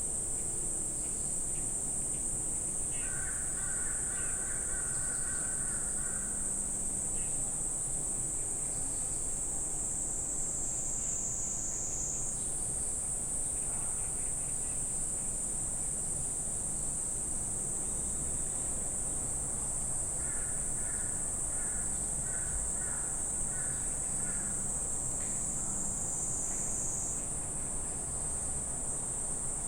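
Forest insect chorus: a steady high-pitched insect drone. Twice a bird calls in runs of short repeated notes, once a few seconds in and again past the middle.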